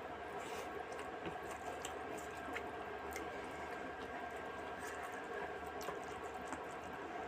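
Close-miked eating of rice and fish curry: soft wet squishing and chewing with scattered small clicks, over a faint steady hum.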